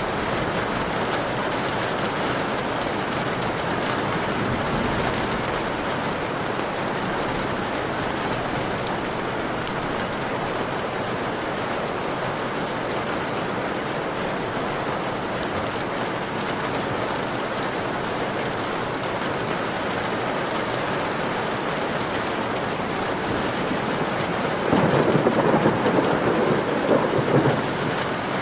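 Steady rain beating on a window pane, with a roll of thunder about three seconds long near the end.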